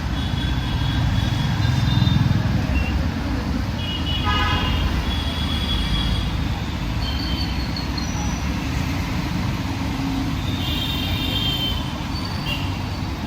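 Busy road traffic rumbling steadily, with several vehicle horns tooting at intervals, among them a longer honk a little after halfway.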